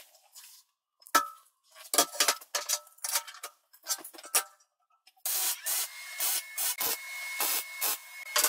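Metalworking in a workshop: a run of sharp irregular knocks and clinks, then from about five seconds in a steady noise with a held high whine.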